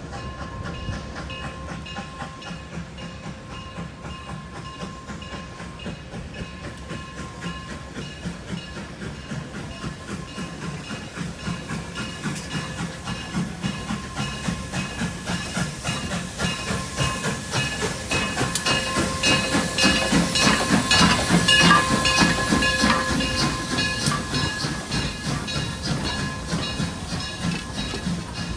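Durango & Silverton narrow-gauge steam train running past, its wheels clicking over the rail joints in a fast, even rhythm, with a steam hiss. It grows louder to a peak about three quarters of the way through, then eases off.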